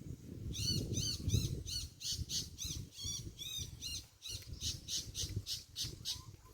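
A bird calling in a fast, steady series of short high arched notes, about four a second, starting about half a second in, over a low rustling noise.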